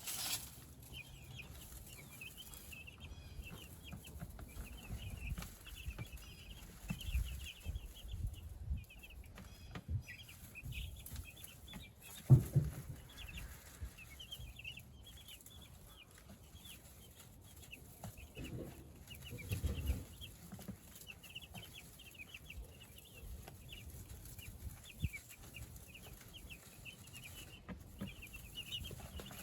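A pen of young meat-bird chicks peeping continuously in short, high chirps, with low handling bumps and one sharp knock about 12 seconds in.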